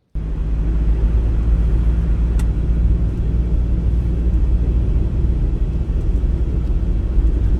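A camper van driving along: a steady low rumble of engine and road noise that starts abruptly right at the beginning.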